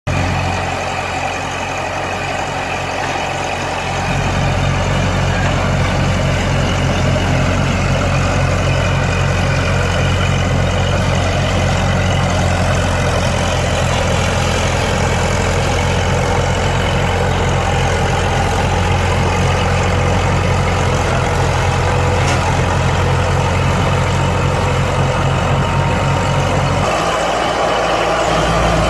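Bulldozer's heavy diesel engine running steadily, getting louder about four seconds in, with a shift in its note near the end.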